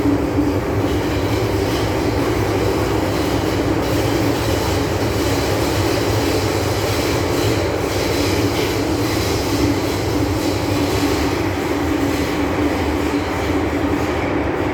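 MTR M-Train electric multiple unit running steadily between stations: a continuous rumble of wheels on rail with a steady hum, heard from on board.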